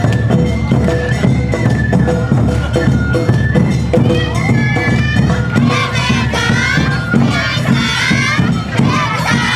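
Awa odori festival band playing: a shinobue bamboo flute melody over the steady beat of shime-daiko and ō-daiko drums with a kane hand gong. From about halfway through, many voices shout calls over the music.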